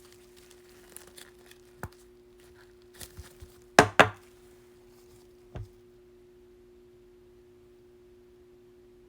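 Trading cards being handled on a table: a few light clicks and rustles, then a sharp double knock about four seconds in and one softer knock after it. A steady low hum runs underneath.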